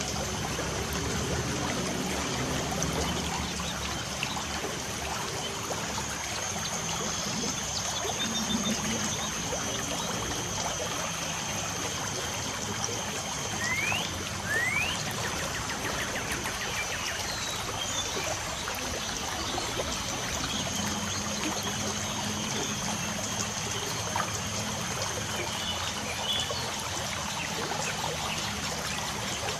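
Light rain falling steadily with a trickling, hissing wash, and birds chirping now and then, including two short rising chirps about halfway through.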